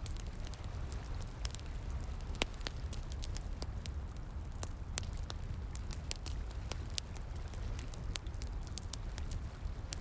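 Campfire crackling, with many irregular sharp pops, over a steady rush of flowing water.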